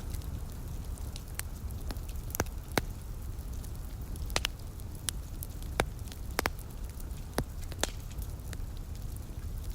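Wood fire crackling in a fireplace: irregular sharp pops and snaps, a few louder ones a little before the middle, over a steady low rumble.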